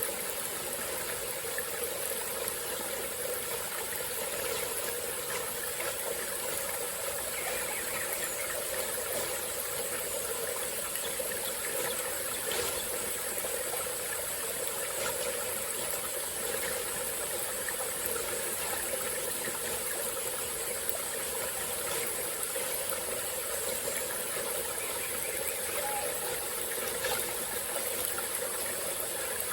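Small forest stream flowing, a steady, unbroken babble of running water.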